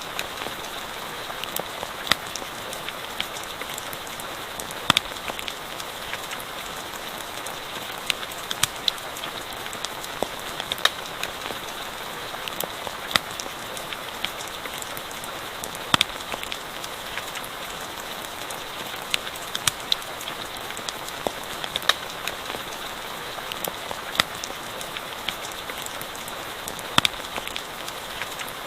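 Steady rain hiss with irregular sharp pops and crackles from a campfire, a few louder than the rest.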